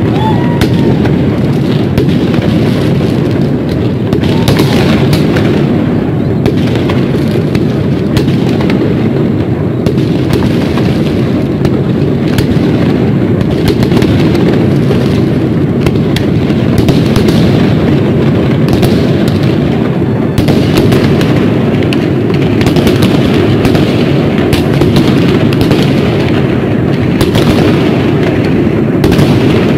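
New Year's fireworks: a dense, continuous barrage of overlapping bangs and crackles from many fireworks at once, at a steady high level.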